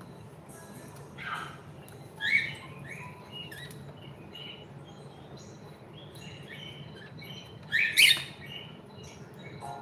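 Pet cockatiel chirping: a scatter of short, high chirps, with a louder call about two seconds in and a louder cluster of calls near the end.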